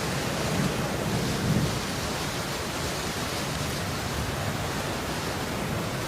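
Steady hiss of falling rain, with a low rumble underneath during the first second and a half that then fades.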